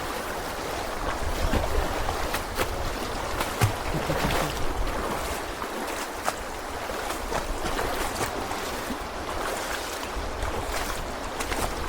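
Fast-flowing river water rushing steadily, with scattered small splashes and a low rumble of wind on the microphone.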